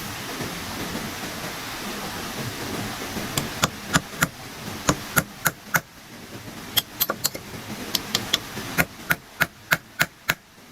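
Repeated sharp blows of a hand tool striking wood, about twenty irregular strikes at two to three a second, starting a few seconds in over a steady background hiss.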